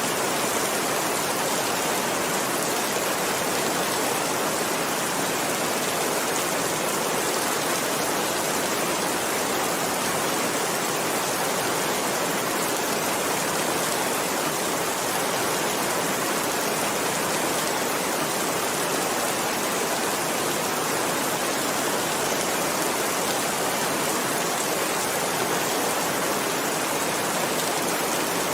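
Heavy rain falling, a steady even hiss with no lulls or thunder.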